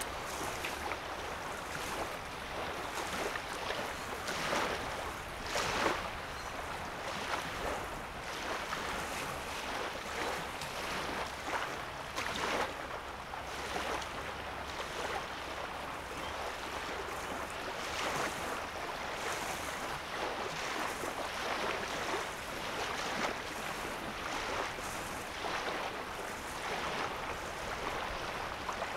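Small lake waves lapping and splashing on a sandy shoreline, a steady wash broken by frequent, irregular little splashes.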